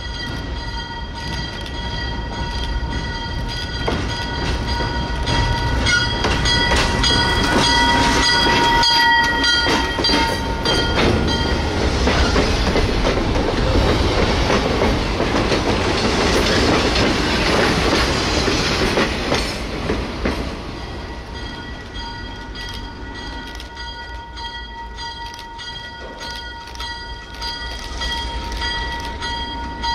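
ALCO S6 diesel switcher locomotive running with its freight cars, a steady high-pitched whine over the engine's rumble. From about 12 to 20 seconds in, a louder rush of steel wheels on rail takes over as the cars roll close by. After that the whine and a lower engine sound carry on.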